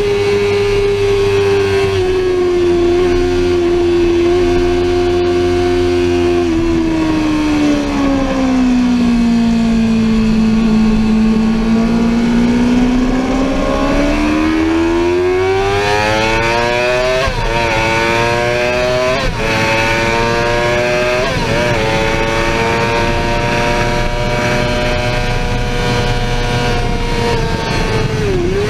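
Sportbike engine heard on board at speed: the revs fall smoothly for several seconds, then climb again with three quick upshifts in a row, hold steady, and briefly dip twice near the end. A steady rushing noise runs underneath.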